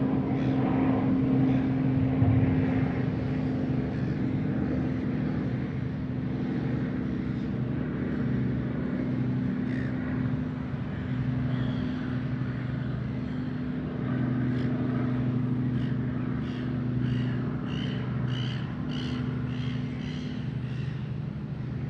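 A steady engine drone with a low, even hum that runs unbroken. Near the end it is joined by a series of short, high chirps, about two a second.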